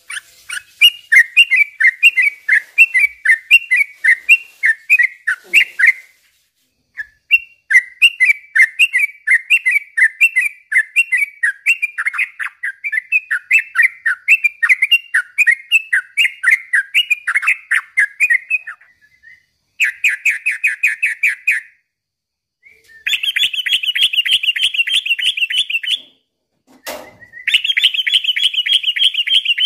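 Sooty-headed bulbul (trucukan) singing long runs of quick, chattering repeated notes. In the second half it breaks into fast rolling trills, the last ones higher-pitched. A brief falling sweep comes near the end.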